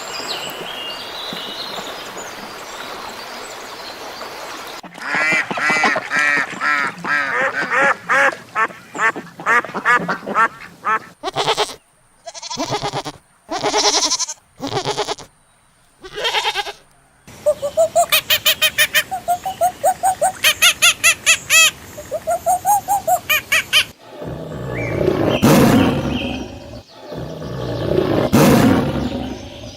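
A string of bird calls, one clip after another. A steady hiss runs for about five seconds, then come fast runs of calls and pulsed chattering, and near the end harsher, noisier calls.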